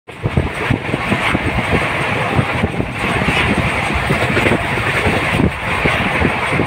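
A moving train heard from on board: a loud, steady rumble and rattle from the running gear, with irregular low knocks and a constant rushing hiss of air.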